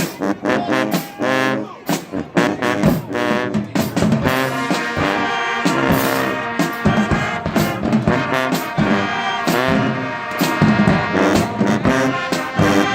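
A high school band playing, with brass (trombones and trumpets) carrying the music over a steady beat of drum hits.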